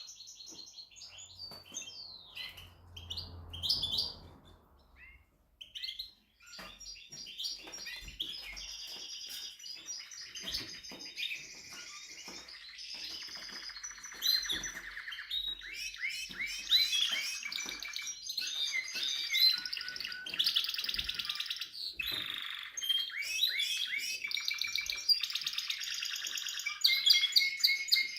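Timbrado Español canary singing a long song of rapid trills and rolling phrases, switching from one repeated figure to the next every second or two, with a short break about five seconds in.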